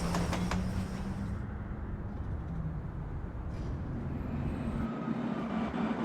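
Scale 1 model train running on the layout: a steady low hum with a few rail-joint clicks in the first half second. The hum steps up in pitch near the end.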